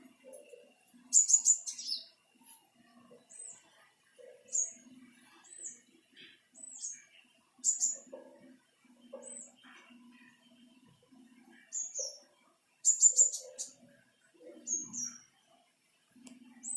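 Small birds chirping in short, high calls, with quick runs of chirps about a second in and again near 13 seconds.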